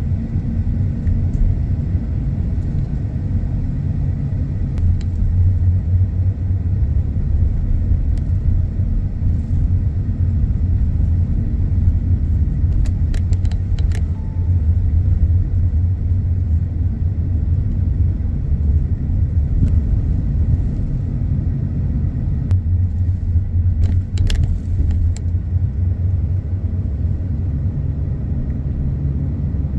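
Car driving, with a steady low rumble of road and engine noise and a few brief clicks near the middle.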